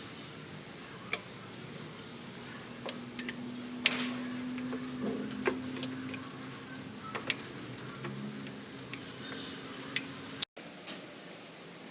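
Scattered light clicks and taps of hand work on engine parts, with a faint steady hum for a few seconds in the middle. The sound cuts out for an instant near the end.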